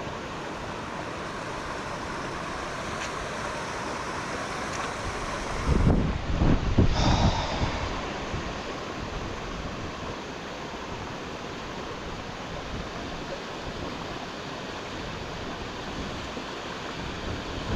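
Swollen, fast-flowing river rushing steadily. About six seconds in, a loud buffeting on the microphone lasts for about two seconds.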